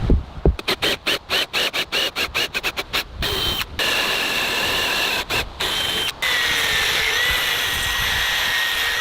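Power drill whining in quick trigger bursts, then running more steadily with a few short stops. Its pitch drops slightly near the end as it bites into the wood of a log post.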